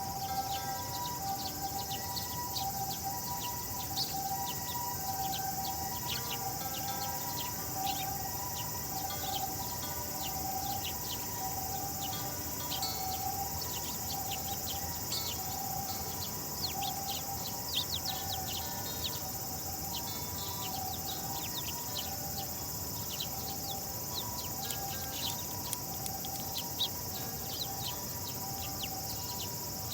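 Sparrows chirping, many short chirps one after another, over a steady high hiss and a steady two-note tone.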